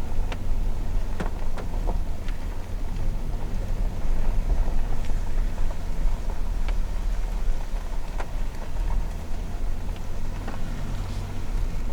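A vehicle's engine running steadily at low speed on a rough road, with occasional light clicks and knocks from the ride.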